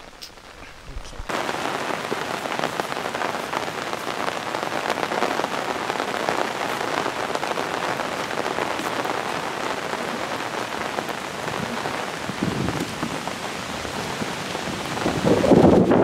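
Steady rain falling, an even patter that comes in suddenly about a second in. A louder burst of noise comes near the end.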